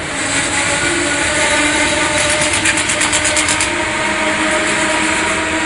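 Shoreline East commuter train arriving at a station, its engine giving a steady hum of several tones. A run of rapid, even clicks starts about two seconds in and lasts over a second.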